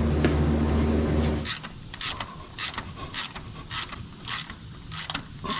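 A steady low machine hum that cuts off about a second and a half in, followed by a run of sharp mechanical clicks about every half second from hand tools at work on the engine's valve train.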